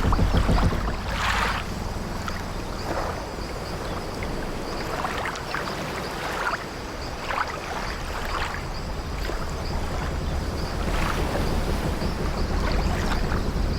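Sea waves and wind rumbling low and steady around an old wooden sailing ship, with the ship's timbers creaking in short strains every second or two.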